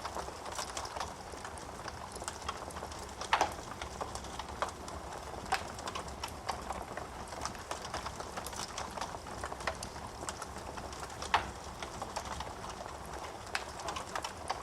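Wood burning in a fireplace: a steady crackle of small irregular clicks, with three louder pops spread through.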